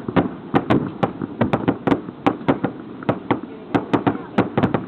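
Fireworks going off in a quick, irregular run of sharp pops and bangs, about four a second.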